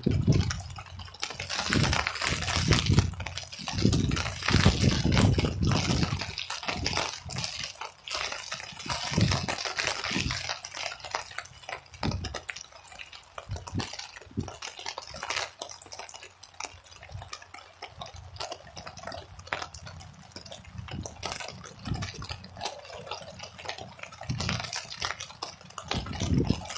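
Steady rain with drips and patter, while gusts of wind buffet the microphone in low rumbling surges, strongest in the first few seconds and again near the end.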